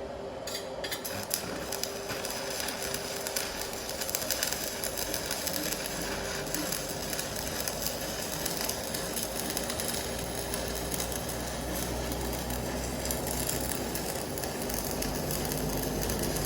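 Stick (shielded metal arc) welding with a 3.2 mm electrode: the arc strikes about half a second in, then crackles and sizzles steadily as the bead is laid.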